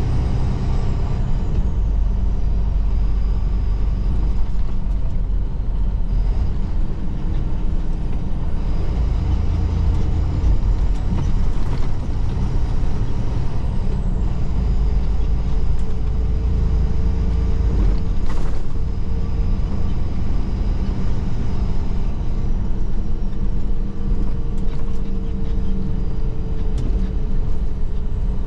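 Semi truck's diesel engine and road noise while driving: a steady low rumble with a faint, slowly drifting whine over it, and a single sharp click about eighteen seconds in.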